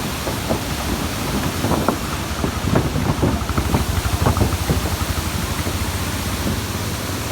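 Rushing water of a waterfall as a steady hiss, with irregular low buffeting on the microphone, densest around the middle.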